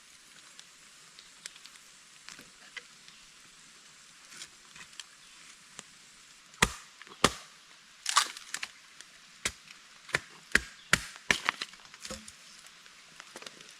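Wood being chopped for a campfire: about ten sharp wooden cracks in quick, irregular succession, starting about halfway through, with only faint small knocks before them.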